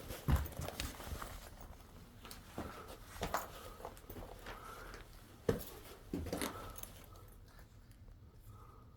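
A hiker's footsteps and scuffs on a mountain trail, irregular, with one louder knock about five and a half seconds in, growing quieter after about seven seconds.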